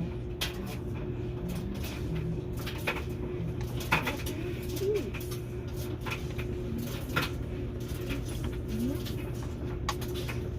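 Pigeons cooing now and then, with scattered sharp clicks and knocks over a steady low hum.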